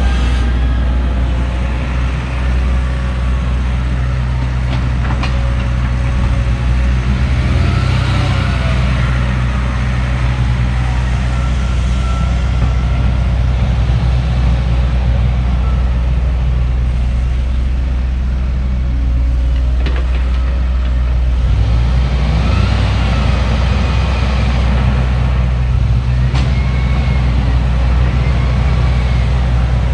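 Diesel engine of heavy digging equipment running steadily under load. Its pitch swells and falls back a couple of times as it works, and a few sharp knocks sound in between.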